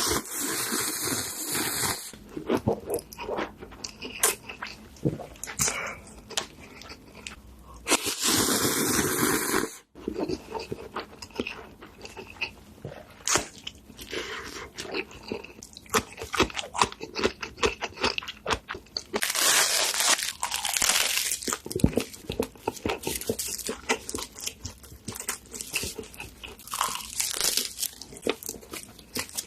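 Close-miked eating of crunchy food: many sharp crunches and chewing. Three stretches of steady hiss break in, at the start, about eight seconds in and about twenty seconds in.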